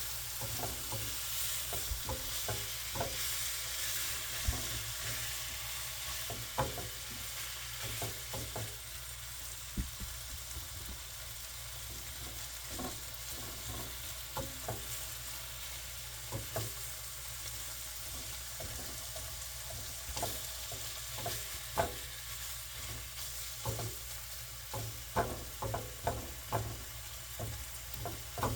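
Meat frying in a pan, sizzling steadily, with frequent short clicks and knocks of a utensil against the pan, coming faster in the last few seconds.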